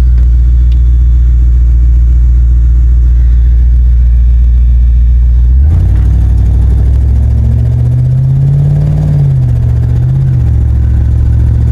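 Wood-gas-fuelled truck engine idling steadily at a stop. About halfway through it revs up and pulls away, the engine note climbing for a few seconds before dropping back near the end.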